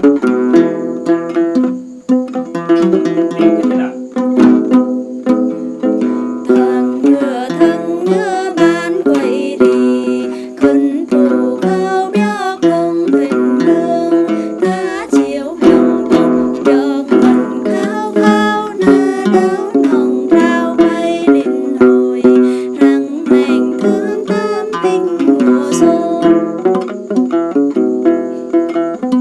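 Đàn tính, the Tày people's long-necked plucked lute, played as a continuous run of plucked, ringing notes in a folk tune.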